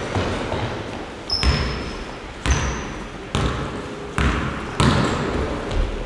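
Basketballs bouncing on a hard floor, about six echoing bounces at irregular intervals, with a few short high squeaks among them.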